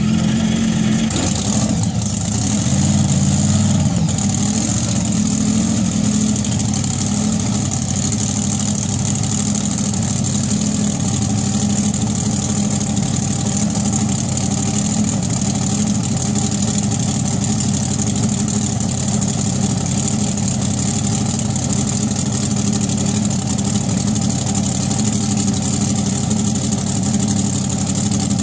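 Race car engine idling steadily, loud and even, with a constant high hiss over it.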